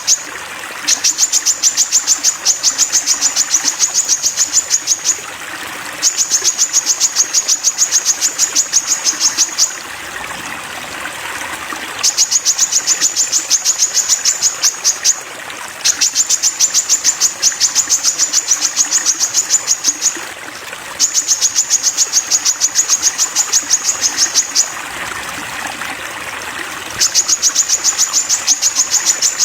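Sogon bird song as used for masteran training: runs of rapid, evenly spaced high notes, about seven or eight a second, each run lasting three to four seconds, with short pauses between. Faint trickling water sits underneath.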